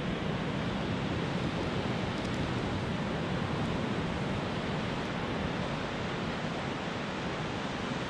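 Steady, even rushing noise of wind and ocean surf, with no single event standing out.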